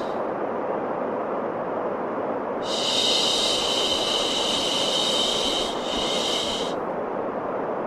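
Steady white-noise hiss for baby sleep, with a long high "shh" shushing sound laid over it from about three seconds in until near the end.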